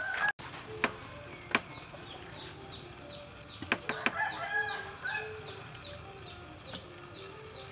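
Birds calling: a short, high, falling note repeated about twice a second, with lower clucking calls mixed in around the middle. A couple of light knocks come in the first two seconds.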